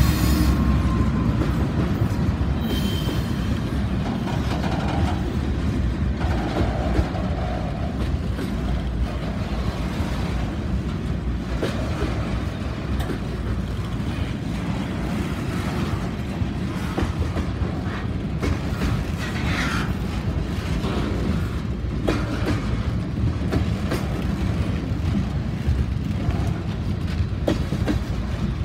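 A diesel-hauled freight train rolling past close by: the last locomotive goes by at the start, then a string of lumber-laden centerbeam flatcars. Wheels rumble steadily on the rails, with scattered clicks and knocks over rail joints and a few brief wheel squeals in the first several seconds.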